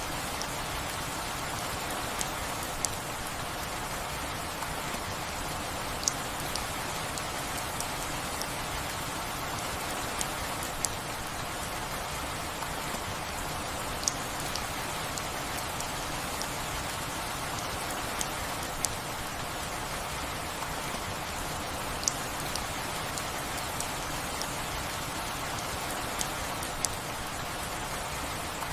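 Steady rain falling, with louder single drops ticking sharply every few seconds.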